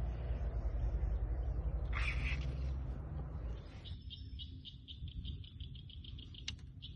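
A bird chirping in a rapid, even series of high notes, about five a second, starting about four seconds in. Before that there is low rumbling noise and a brief rustle about two seconds in.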